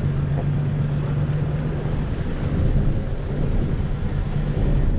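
Toyota Hilux driving on a dirt station track: steady engine and road noise, with a low engine hum that fades about two seconds in.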